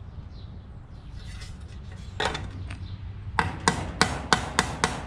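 Hammer blows knocking a bent sheet-metal engine gasket flange back flat against the leg of a carport: one blow about two seconds in, then a quick run of ringing blows about three a second. The flange was bent out of shape by over-torqued bolts.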